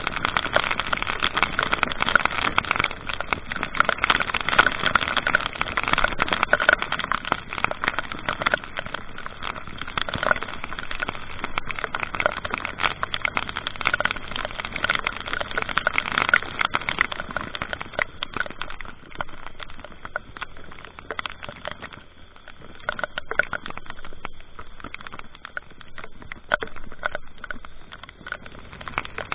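A vehicle on the road: steady travel noise thick with crackling, easing somewhat after about 18 seconds.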